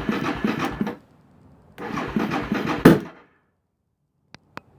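Suzuki DR650's single-cylinder engine being turned over on the electric starter in two bursts of pulsing cranking. The second burst ends in one sharp pop, and the engine still fails to catch. A few small clicks follow near the end.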